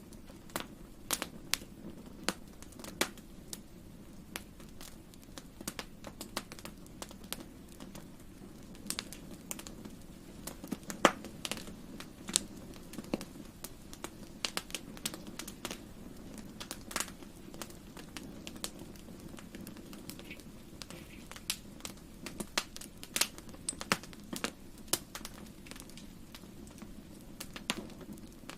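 Wood fire crackling in a fireplace: irregular sharp snaps and pops over a steady low rumble, with one louder pop about eleven seconds in.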